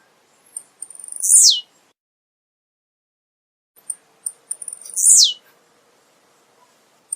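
Male blue-black grassquit (tiziu) singing: two short songs about three seconds apart. Each song is a few faint, very high ticks followed by a loud note that sweeps sharply down in pitch.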